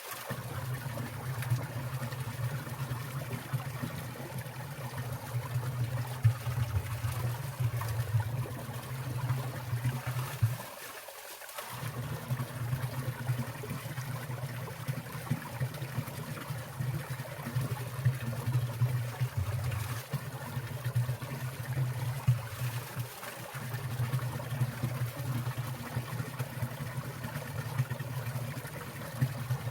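Water of a winter mountain stream trickling and splashing in a steady flow, with a brief dip about eleven seconds in.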